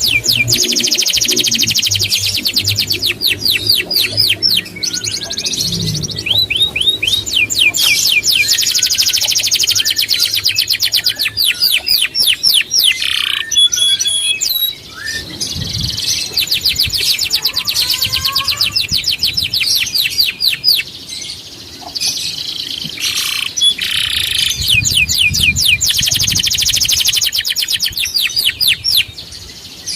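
A small songbird singing long phrases of very fast repeated trilled notes, with short breaks about halfway through and again a little later.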